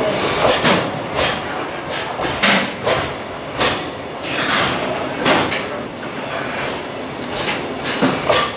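Container flat wagons of a JR Freight train rolling past, their wheels knocking sharply over rail joints at an irregular pace, about one or two loud clacks a second, over a continuous rumble.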